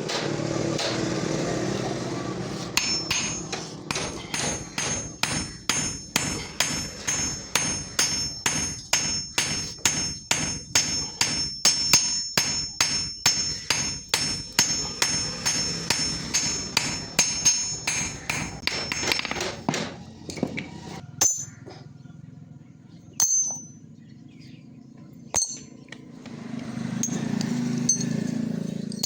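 Hammer striking steel on an anvil in a steady rhythm of about two blows a second, each blow ringing. The blows stop about two-thirds of the way through, followed by a few single taps.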